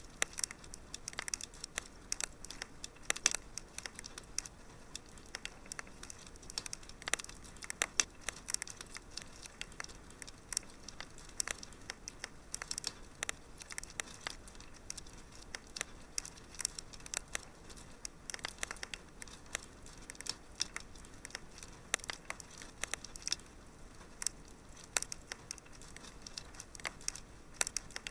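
Wood fire crackling in a fireplace: a steady stream of irregular sharp pops and snaps over a faint hiss.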